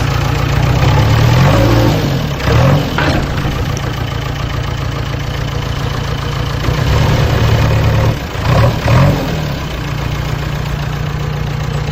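Engine running steadily, revving up and down briefly about two seconds in and again near nine seconds.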